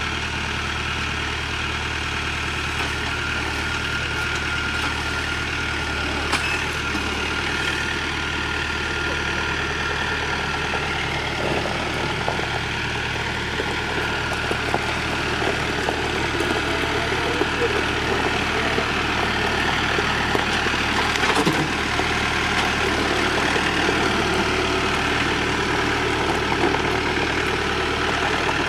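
Tractor engine running steadily, a little louder in the second half, with a couple of brief knocks.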